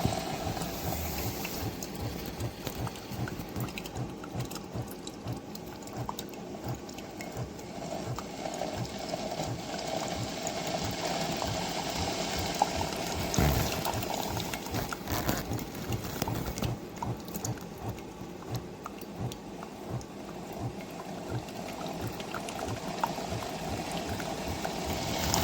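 Single-serve pod coffee maker brewing an 8-ounce cup, with hot water pouring steadily into the cup.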